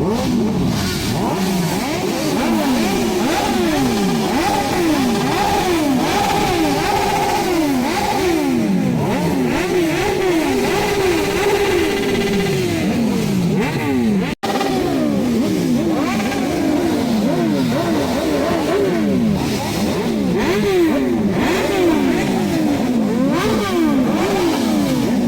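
Motorcycle engines being revved over and over, several at once, their pitch climbing and falling again and again, with a brief break about fourteen seconds in.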